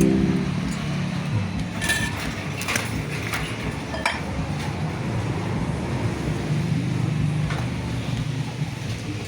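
Scattered metallic clinks and taps of metal parts being handled while a scrapped refrigerator is taken apart, over a steady low rumble.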